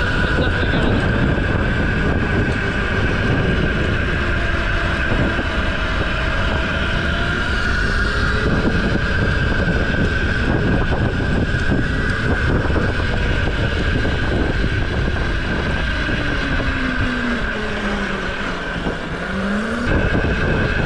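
Mini bike's small engine running under way, with wind rushing on the microphone. Near the end the engine pitch falls and then climbs again as it slows and throttles back up.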